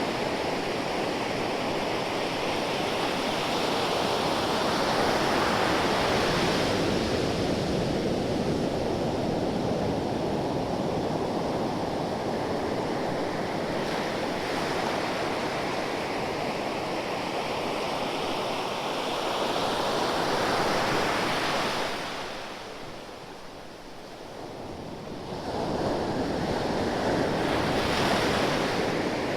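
Ocean waves breaking and washing up the shore in a continuous rush that swells and recedes. A lull comes about three-quarters of the way through, then the next wave surges in.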